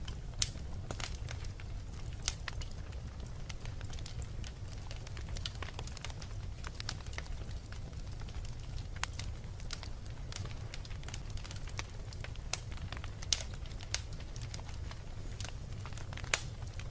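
Fire burning in a fireplace: a steady low rumble of flames with scattered crackles throughout and a few louder sharp pops.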